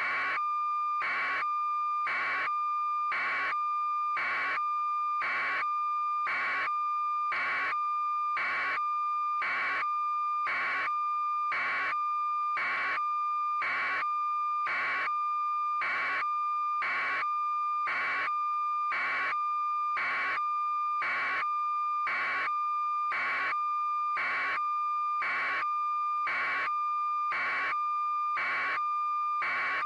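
Steady electronic beeping, about one and a half beeps a second without a break, over a continuous high-pitched tone.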